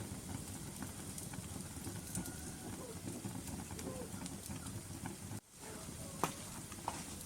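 Wood fire crackling in a fireplace: burning logs give a steady low rumble with scattered sharp pops and crackles, one louder pop about six seconds in. The sound cuts out for an instant about five and a half seconds in.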